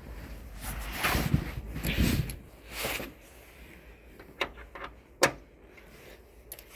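Tools being handled during car repair work: a few rustling scrapes, then light clicks and one sharp click about five seconds in.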